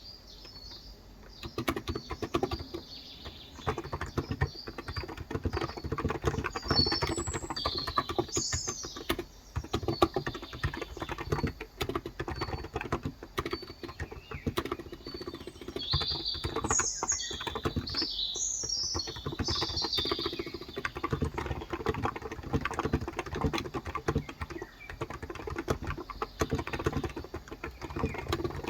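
Fast, continuous typing on a Cox Endeavor electro-capacitive (Topre-style) 35 g tenkeyless keyboard, starting about a second and a half in. Birds chirp in the background in a few short spells.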